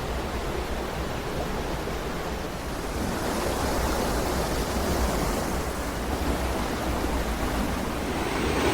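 Rushing water of a fast-flowing mountain creek: a steady, even rush that grows a little louder about three seconds in.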